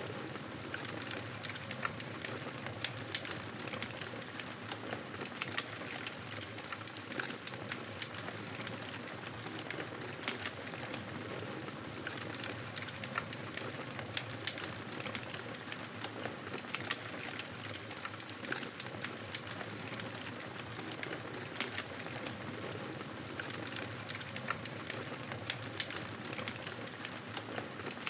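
Fire crackling in a fireplace: a steady hiss of flames with frequent small sharp pops and snaps at uneven intervals.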